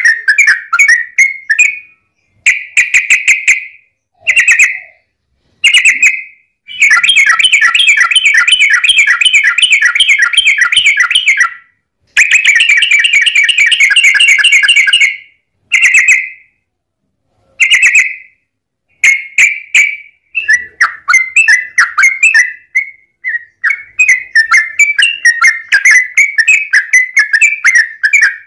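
Yellow-vented bulbul (trucukan) singing in bursts of rapid repeated chattering notes. Two long unbroken rolls of several seconds each come in the middle, between shorter phrases and brief pauses.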